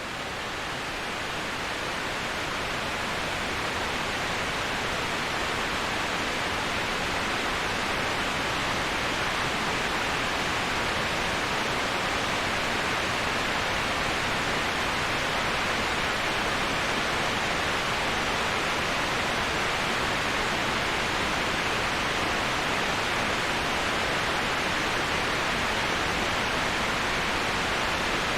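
Steady rushing hiss of a waterfall, an even wash of falling water with no other sounds. It swells up over the first few seconds, then holds constant.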